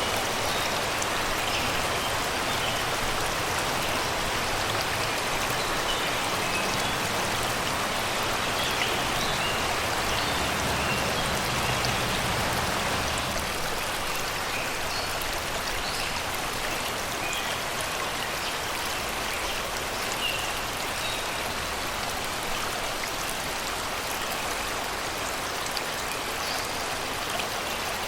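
Shallow river water babbling and rushing over rocks in a steady wash, with faint short bird chirps above it. The low rumble of the water eases a little about halfway through.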